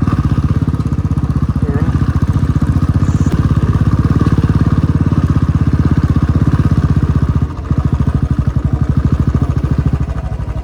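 Motorcycle engine running steadily with an even firing pulse, dipping briefly about seven and a half seconds in.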